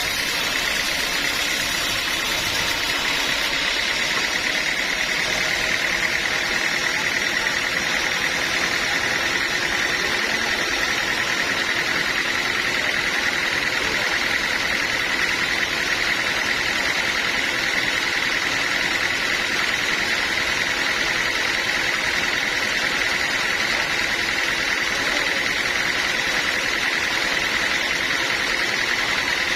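Band sawmill machinery running steadily: an even, unchanging mechanical noise with a constant high-pitched hum on top.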